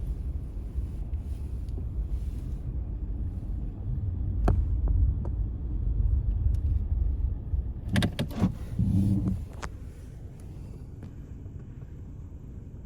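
Car driving: a steady low rumble of engine and road noise, with a few sharp clicks midway and a brief low hum, after which the rumble settles quieter for the last few seconds.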